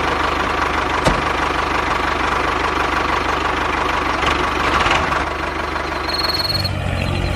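Small motor of a DIY mini tractor running steadily with an even, rhythmic beat and a faint steady whine. A single sharp click comes about a second in, and a short high tone sounds near the end.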